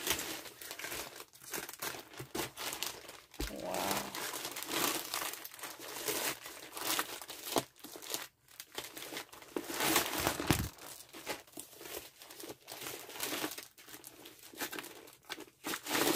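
Plastic packaging being crinkled and torn open by hand, with continuous crackling and sharp rustles throughout.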